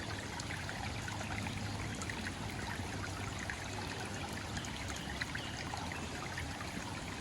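Steady rushing of flowing water, like a stream, with faint scattered ticks.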